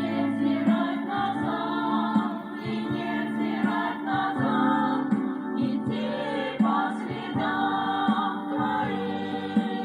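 Christian worship song: a group of voices singing together with band accompaniment under sustained low notes.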